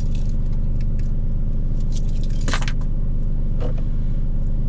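A truck's engine idling with a steady low drone, with a few light clinks and knocks of kitchenware on top, the loudest about two and a half seconds in.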